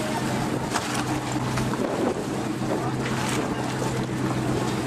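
A boat's engine running steadily with a low hum, under wind buffeting the microphone and a few knocks.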